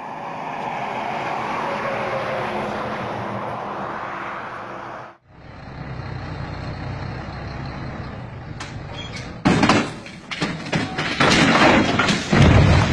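Heavy truck running with a steady hiss and rumble. After a cut, a deeper engine rumble gives way in the last three or four seconds to a run of loud bangs and crashes.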